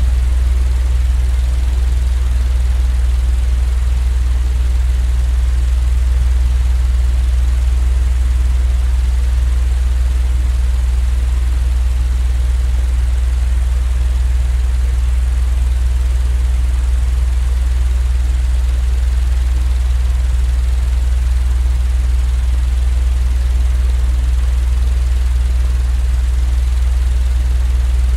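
Steady, unchanging low drone of a white-noise sleep track: a deep hum with a faint hiss above it, with no breaks or changes in level.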